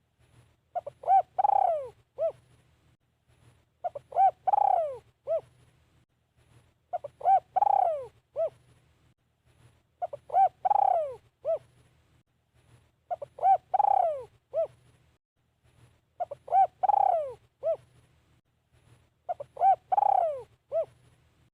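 Spotted dove cooing as a decoy bird. The same phrase comes about every three seconds: two or three short coos, a long louder coo that falls in pitch, then one short closing coo.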